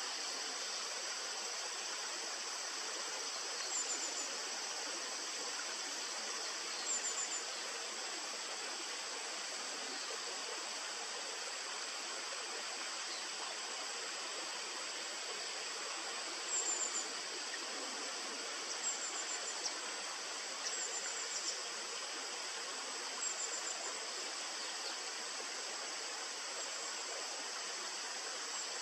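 Steady rushing of a river, with a constant high insect drone over it. Short high chirps of a small bird cut in several times, each a quick run of a few notes.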